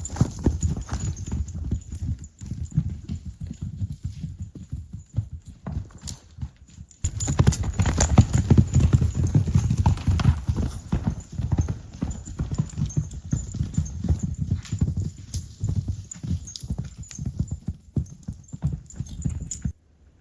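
A horse's hooves clip-clopping on hard ground. The knocking gets louder about seven seconds in and stops abruptly near the end.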